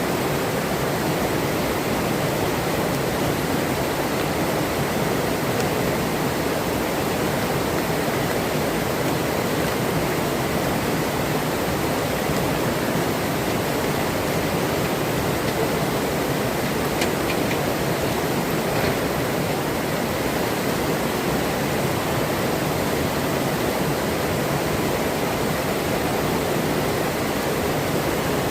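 Forest river flowing, its water rushing in a steady, even wash of sound.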